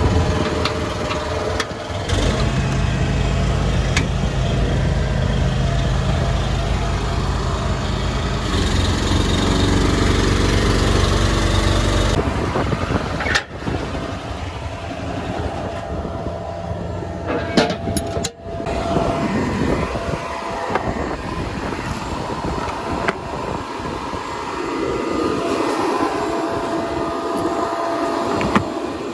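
Farm tractor and machinery engines running steadily, cut together in several short segments: a strong low engine hum for the first part, then quieter, different machinery running after abrupt cuts.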